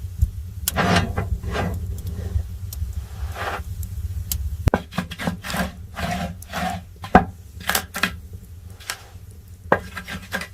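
Wood being handled: an irregular run of sharp knocks and clicks, with short scraping and rubbing between them, over a steady low rumble.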